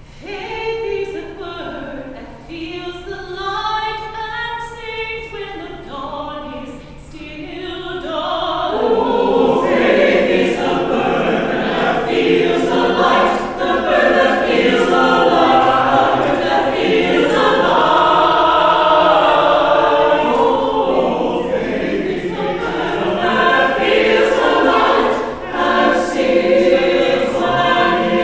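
Church choir singing a choral anthem. The opening is quieter and sparser, and the singing grows fuller and louder from about nine seconds in.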